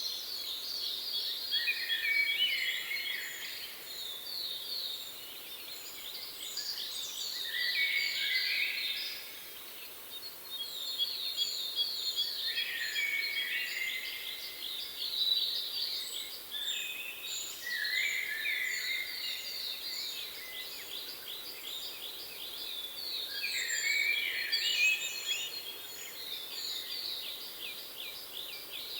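Several birds singing at once: rapid chirps and trills that repeat and overlap, with a faint high series of short notes above them.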